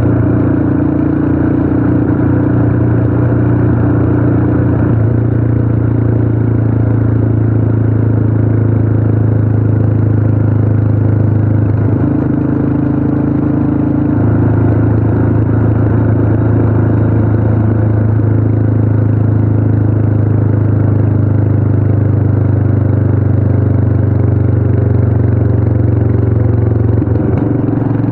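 Royal Enfield Himalayan's single-cylinder engine running steadily while the motorcycle cruises along a paved road. The engine note steps in pitch a few times as the speed changes.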